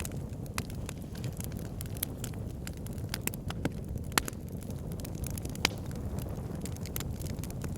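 Wood fire burning in a log burner: a steady low rumble of the flames with irregular sharp crackles and pops from the logs, two of them louder, about four and five and a half seconds in.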